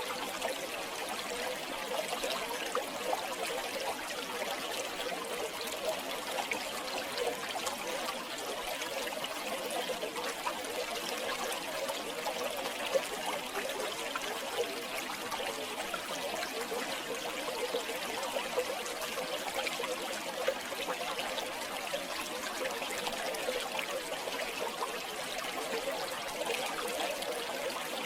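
River water flowing and trickling steadily, a continuous babbling rush with small splashes.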